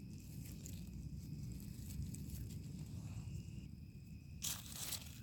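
Faint low rumble and hiss, with a short rustling noise about four and a half seconds in.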